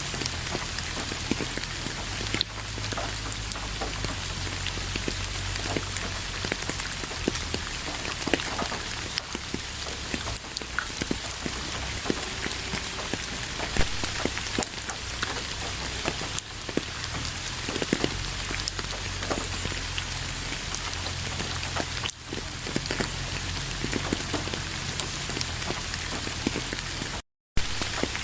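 Steady rain falling on a surface, a dense hiss with many separate drop taps. The sound cuts out completely for a moment near the end, then resumes.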